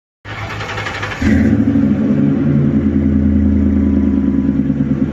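Ford 4.6 V8 with Flowmaster mufflers starting up: about a second of cranking, then it catches with a sudden jump in loudness and settles into a loud, steady idle with an even exhaust pulse.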